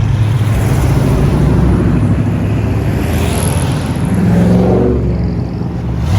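Loud, low rumble of car engines as vehicles roll slowly past. About four seconds in, one engine revs up with a rising pitch.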